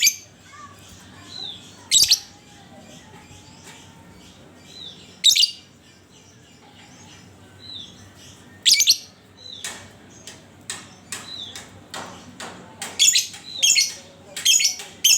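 Lovebird calling with loud, shrill chirps, a few seconds apart at first, then coming in a quicker run through the second half. A softer falling chirp repeats in the background.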